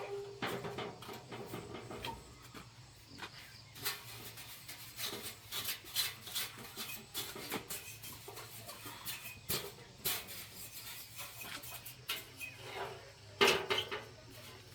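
Irregular scraping and rubbing with scattered light knocks, as of hand work on a hard surface, with a louder cluster of scrapes near the end.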